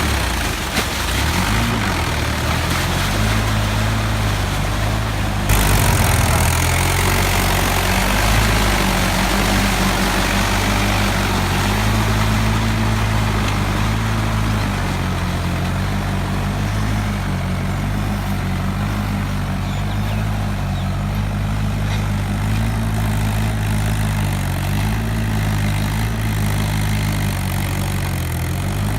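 Mahindra 575 DI tractor's four-cylinder diesel engine running steadily, its pitch wavering slightly with load, growing louder about five seconds in.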